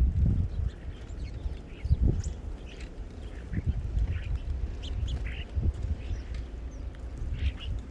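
Small birds chirping at a feeder, with short high calls scattered throughout. Low rumbles are loudest at the start and again about two seconds in.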